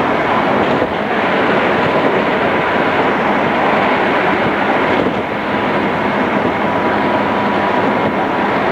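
Cabin running noise of a JR East 211 series electric multiple unit cruising: a steady rumble of wheels on rail with a faint constant whine, dulled as heard on a cassette-tape recording.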